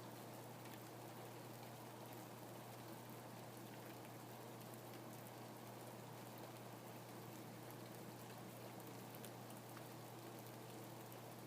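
Faint, steady rain, with scattered light drop ticks.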